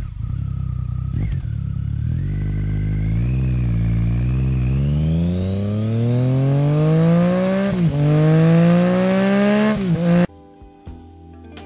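A motorcycle engine accelerating hard, its pitch climbing steadily and dropping back twice as it shifts up through the gears. It cuts off suddenly about ten seconds in, and quieter music begins.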